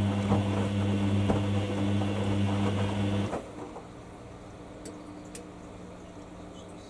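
Hoover washer dryer running with a steady low electric hum and a light rattle, which cuts off abruptly about three seconds in, leaving only a faint hum and a few small ticks.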